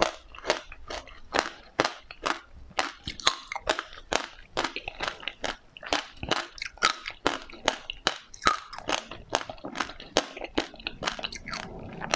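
Close-up mouth sounds of chewing: a quick run of wet clicks and small crunches, several a second, from soft food topped with passion fruit pulp and its seeds.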